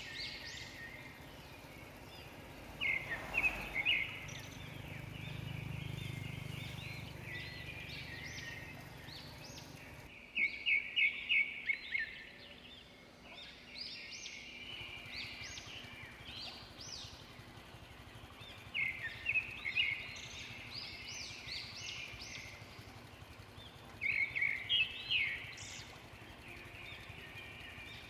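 Birds calling in about four loud bursts of rapid, high chirps over steady outdoor background noise. A low vehicle hum runs for several seconds in the first part and cuts off suddenly.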